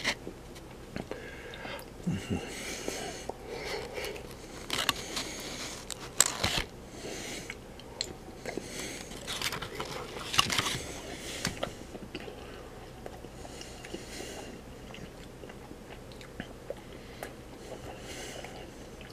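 A person chewing and eating chicken pot pie, with small clicks and scrapes of a fork in the pie tray. The sounds come thickest in the first half and thin out to faint ticks later.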